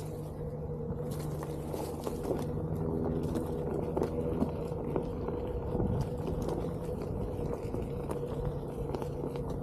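Onewheel GT electric board rolling along a trail: a steady hub-motor hum over tyre rumble, with scattered light clicks and knocks from the ground.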